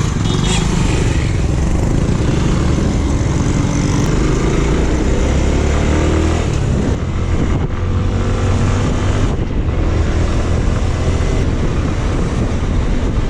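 Motorcycle engine running under way, its pitch rising and falling with the throttle, over steady road noise.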